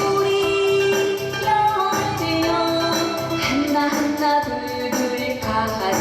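A woman singing a trot song with instrumental backing that keeps a steady beat, holding and sliding between long notes.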